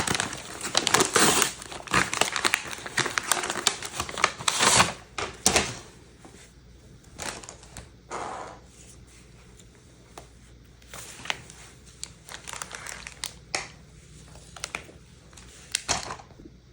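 Lego set packaging crinkling and rustling as it is handled during unboxing. It is dense for the first five or six seconds, then thins to scattered rustles and clicks.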